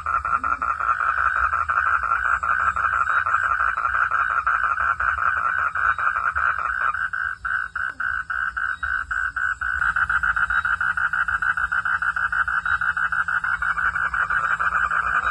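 A chorus of frogs calling, a dense rapid pulsing trill that carries on steadily. For a few seconds in the middle it thins out into separate pulses before filling in again.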